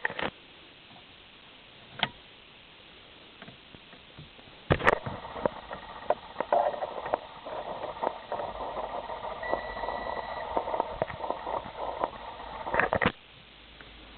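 Seat Leon Mk1 1.6 engine turned over by its starter motor for about eight seconds without catching, then the cranking stops abruptly. A few clicks come before it.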